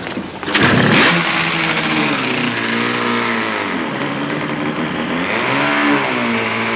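Racing sidecar outfit's engine catching on a push-start about half a second in, then revving, its note rising and falling twice as the outfit pulls away.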